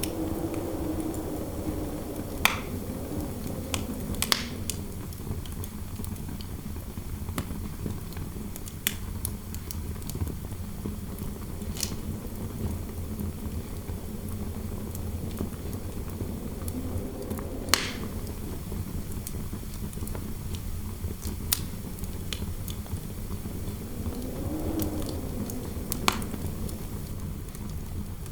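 Fireplace fire burning over a steady low rumble, with sharp single pops every few seconds. Interior wind howls through a room, swelling and fading in waves, near the start, about halfway through and near the end.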